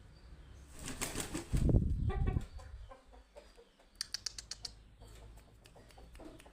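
Rooster flapping its wings hard about a second in, followed by a short clucking call. A quick run of sharp clicks comes near the middle.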